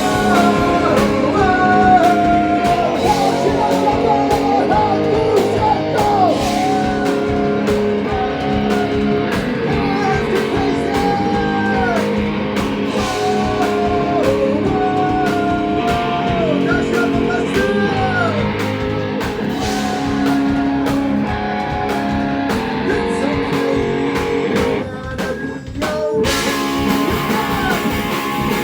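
Rock band playing live: a sung melody over guitar and drum kit, with a short break about 25 seconds in before the full band comes back in.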